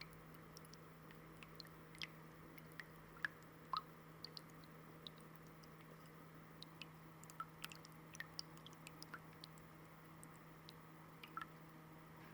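Shallow fountain water trickling faintly, with scattered small drips and plinks over a steady low hum.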